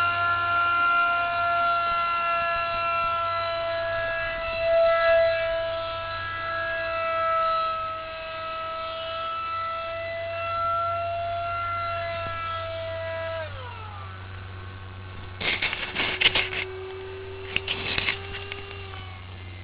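Electric ducted fan of a radio-controlled model jet whining steadily at high throttle. About 13 seconds in, the whine drops to a lower pitch as the throttle is eased. Two short bursts of crackling noise follow near the end.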